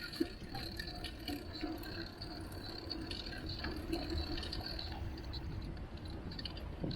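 Steady low rumble of wind and road noise from a bicycle being ridden, with light rattles and small clicks scattered through.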